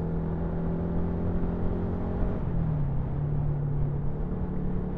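Motorcycle engine heard while riding, most likely the 2017 Yamaha MT-125's single-cylinder engine through its Scorpion full-system exhaust, running at a steady cruise with wind rumble. Its pitch drops about halfway through, as the throttle eases or a gear changes, then holds steady a little lower.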